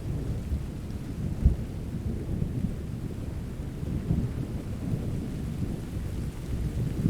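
Thunderstorm: a continuous low rumble of thunder over steady rain, with a sharper low crack about a second and a half in.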